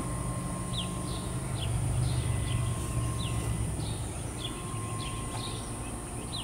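A bird chirping over and over, short falling chirps roughly every half second, over a low steady outdoor rumble.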